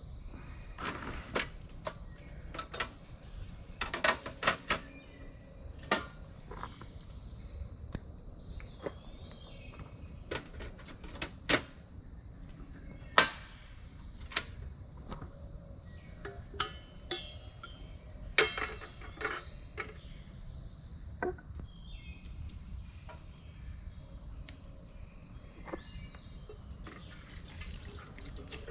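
Wood campfire crackling, with irregular sharp pops and snaps, some much louder than others, over a steady high-pitched hum.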